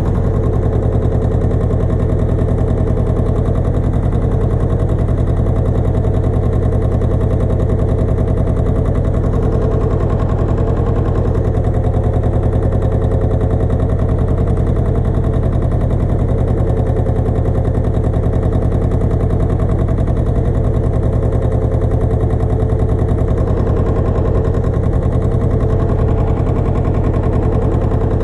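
Pasquali 980 EX compact tractor's engine running steadily while driving a rotovator, with a rapid, even pulsing of its firing strokes.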